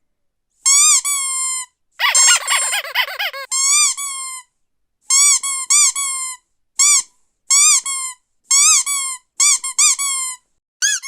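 Squeaky rubber dog toy being squeezed again and again, giving short high squeaks that rise and fall in pitch. They come in quick bunches, with a dense overlapping flurry about two seconds in.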